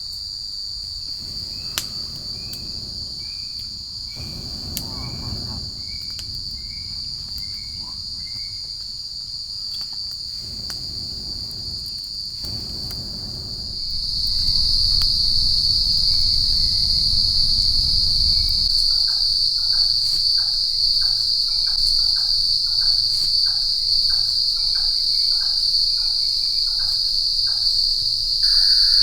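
A forest insect chorus keeps up a steady, high-pitched drone that grows louder about halfway through. A low rumbling noise underneath cuts off about two-thirds in, and then a second, lower pulsing chirp repeats about twice a second alongside the drone.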